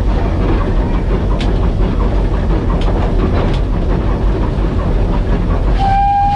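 Steam locomotive running under a steady, set regulator: a continuous rumble with occasional clicks of the wheels over rail joints. Near the end a steam whistle starts, one steady tone.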